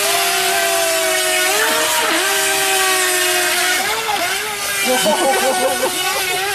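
Mini RC racing boat's 370-size electric motor whining at a steady pitch, dipping briefly a few times, then wavering quickly up and down in pitch over the last second or so.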